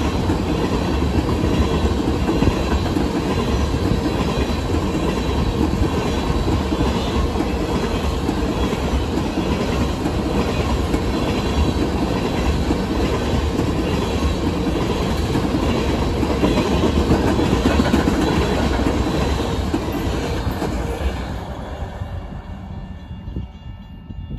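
Empty tank cars of a freight train rolling past at speed: a steady rumble and clatter of wheels on the rails. About twenty-one seconds in the end of the train goes by and the sound fades away.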